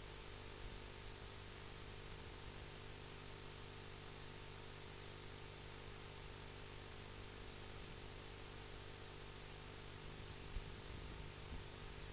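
Faint steady hiss with a steady electrical hum and a thin high whine, and no distinct sound events apart from one small click about ten and a half seconds in.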